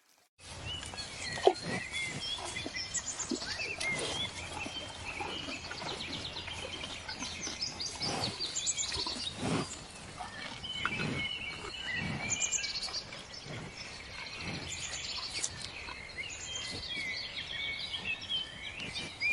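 Many small birds chirping and twittering together over steady outdoor background noise, with a few lower, coarser calls mixed in.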